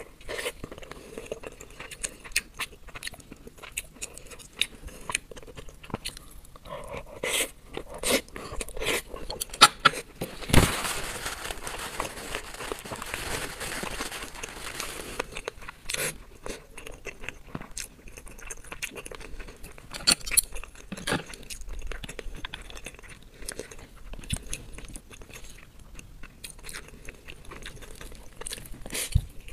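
Close-miked mouth sounds of eating salmon sushi topped with flying fish roe: a bite, then wet chewing with many small sharp clicks and crunches, and a denser stretch of chewing in the middle.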